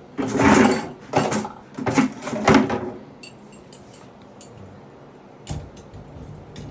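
Clattering and rattling of small flush-valve parts being handled and tossed aside, in a few loud bursts over the first three seconds, then a single knock about five and a half seconds in.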